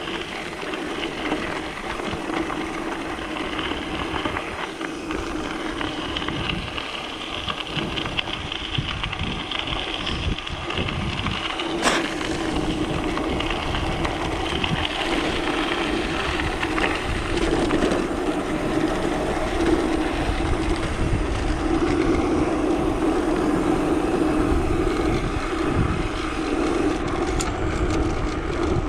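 Wind rushing over the microphone of a moving mountain bike, along with the rolling noise of its tyres. The noise grows somewhat louder after the middle, and there is a single sharp click about twelve seconds in.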